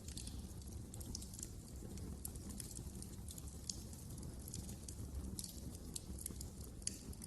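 Wood fire crackling in a fireplace: irregular small pops and snaps over a low, steady rumble of the burning logs.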